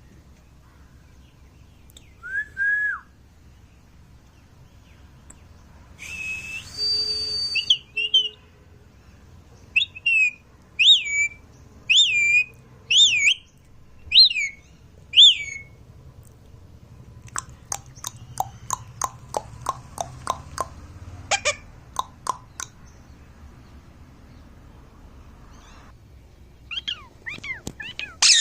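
Indian ringneck parrot whistling and calling: one gliding whistle, a harsher call about six seconds in, then a run of six sharp chirps that each rise and fall. After that comes a series of quick sharp clicks, and a few more chirps near the end.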